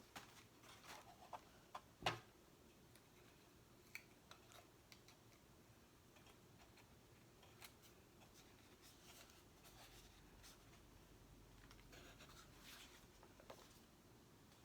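Faint, scattered clicks, taps and light crinkles from stickers being peeled and pressed onto a box, with one sharper tap about two seconds in.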